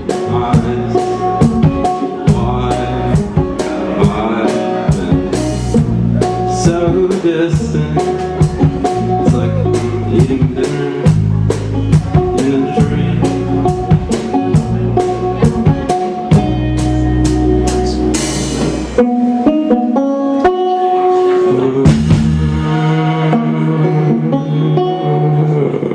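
Live music: a banjo plucking over a steady drum beat. About 19 seconds in, the drums drop out and the banjo notes carry on more sparsely.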